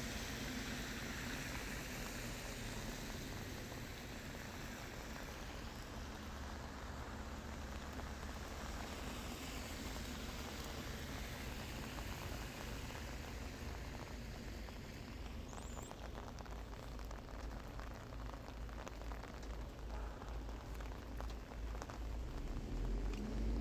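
Rain falling steadily, a constant hiss over a low rumble, with separate drops ticking on a surface from about halfway through. Near the end a low hum rises in pitch.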